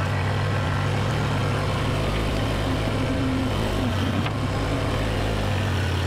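Kubota BX-series compact tractor's three-cylinder diesel engine running steadily while the front loader turns over a compost pile.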